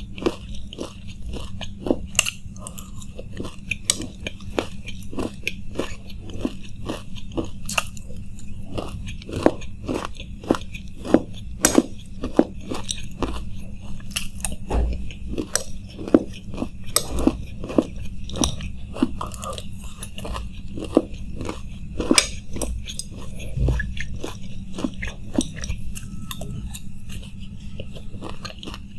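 Close-miked crunching and chewing of chanachur makhani, a crunchy fried Bengali snack mix with raw onion, eaten by the spoonful. It is a steady run of sharp crunches, roughly two a second.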